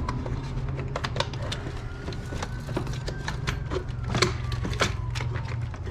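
Irregular sharp clicks and knocks of hand tools and small metal parts being handled during disassembly, over a steady low hum. A faint distant siren wails slowly up and down behind them.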